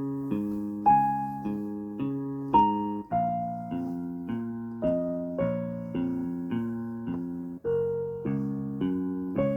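Yamaha PSR-E373 portable keyboard played on its concert grand piano voice: a slow melody over chords struck at a steady pulse, each decaying before the next.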